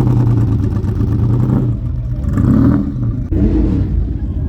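A car engine running at idle with a steady low hum, its pitch rising briefly twice in the second half as the throttle is blipped.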